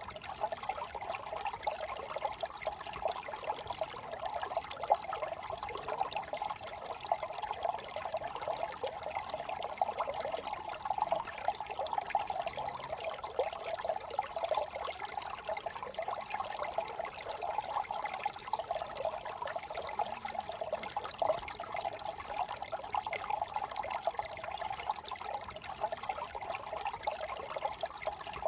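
Small desert brook trickling steadily, a continuous babble of running water.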